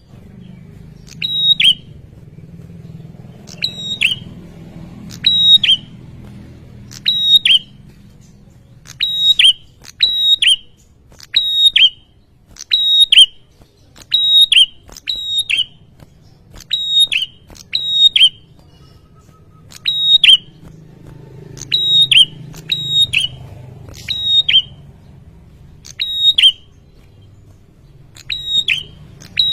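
A small songbird, the red-headed prenjak, giving loud, sharp, high call notes again and again. The notes come singly or in quick runs of two or three, about once a second, over a faint low background rumble.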